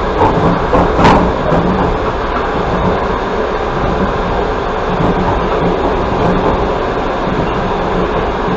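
Passenger train running along the track, heard from inside the carriage: a steady rumble of wheels and car body. There is one sharp knock about a second in.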